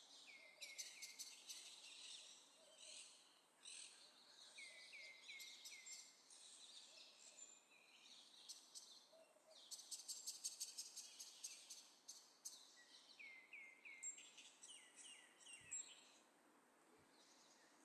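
Faint birdsong: songbirds singing in phrases of rapid high trills and quick runs of short chirps, with brief pauses between phrases.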